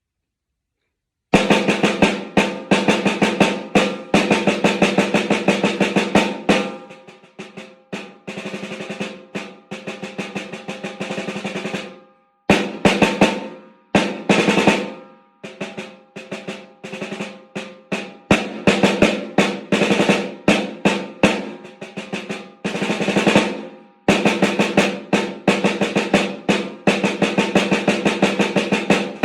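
Snare drum played with sticks in a solo: fast strokes and rolls with loud accents, starting about a second in and stopping briefly a few times, around the middle and again just after.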